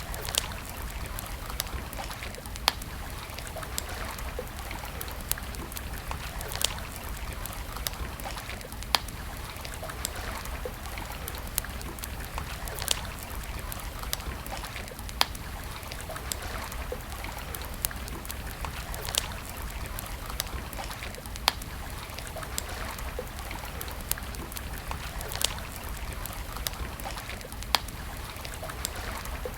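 Wood campfire crackling, with sharp pops every two seconds or so, over a steady rush of flowing river water.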